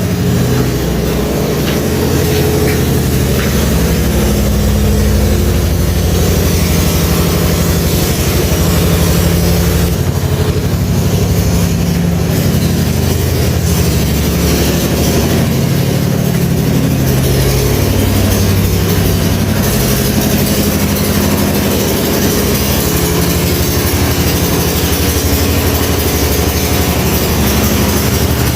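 Engine of a concrete mixer running steadily and loudly, its pitch shifting a little as the load changes.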